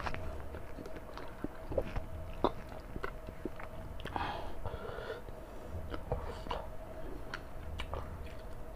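Chewing and wet mouth sounds of a person eating rice and chicken curry by hand, with scattered small clicks and smacks. A faint steady hum runs underneath.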